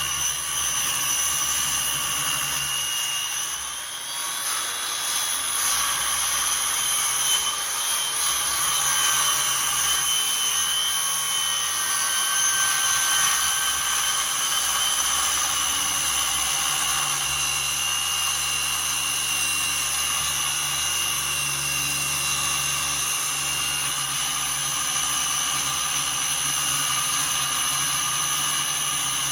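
Electric power tool running continuously with a high motor whine, briefly easing off and shifting in pitch about four seconds in.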